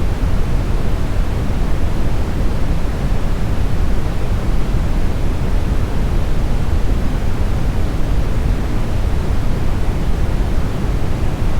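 Steady synthetic brown noise: an even, deep rushing hiss weighted toward the low end, with no tones or events.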